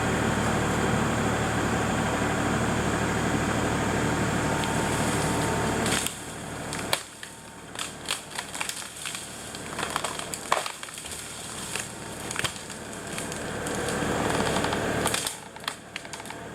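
LS MT240e compact tractor's engine running steadily under load for the first several seconds, then dropping back. Over the latter half, a string of sharp cracks and snaps as the strapped trunk of a snapped cherry tree tears off its break and drags through branches.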